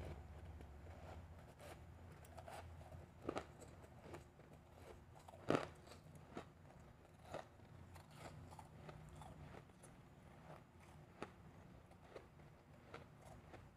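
Close-miked crunching of refrozen powdery ice being bitten and chewed: scattered sharp crunches, the loudest about five and a half seconds in.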